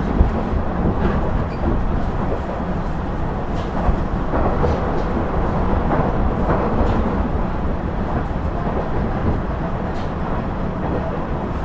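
KiHa 110 series diesel railcar under way, heard from inside the car: a steady rumble of the diesel engine and wheels on the rails, with a few faint clicks from the wheels passing over rail joints.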